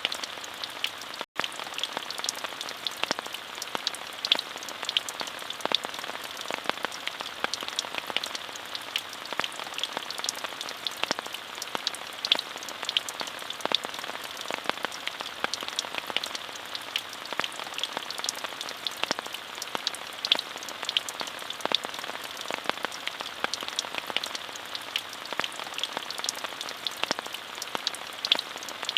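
Steady rain with a continuous hiss and many distinct drop ticks, cut by a momentary dropout about a second in.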